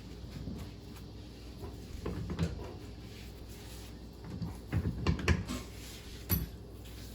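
Wrenches and metal hardware clinking and knocking while the stern drive's hydraulic ram bolts are worked loose. Short clatters come in two groups, with one sharp click near the end.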